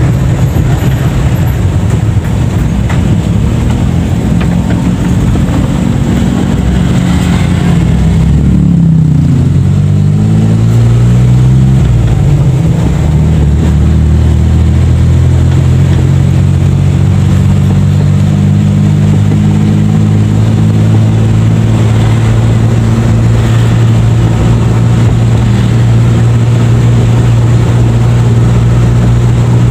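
Daihatsu Charade G10's small three-cylinder engine running under way, heard from inside the cabin. Its pitch dips and climbs again around eight to ten seconds in, then holds steady.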